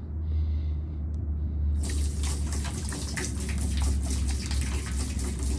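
Antifreeze being poured into a floatplane float through a small opening, starting about two seconds in and running steadily, over a steady low hum.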